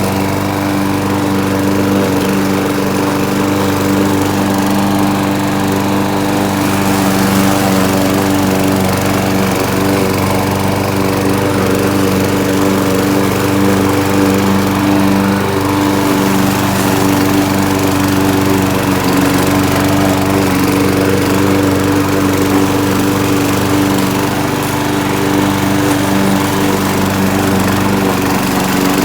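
Gas lawn mower engine running steadily at a constant speed.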